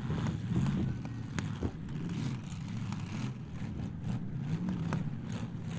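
Demolition derby cars' engines running and revving, rising and falling in pitch, with a few sharp knocks of metal from the cars hitting each other, the clearest about a second and a half in.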